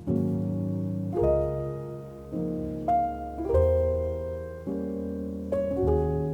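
Background piano music: gentle chords struck and left to ring, changing about every one to one and a half seconds.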